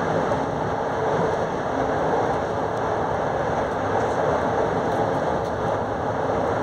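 Passenger train running at speed: a steady, unbroken noise of the wheels on the rails, heard from aboard, with no distinct clicks.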